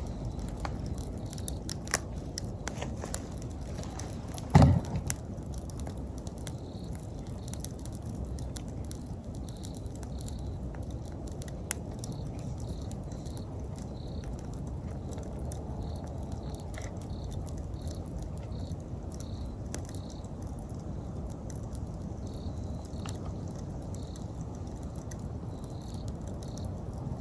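Wood campfire burning: a steady low rush of flames with scattered crackles and pops, one much louder pop about four and a half seconds in. An insect chirps in short, evenly repeated notes in the background throughout.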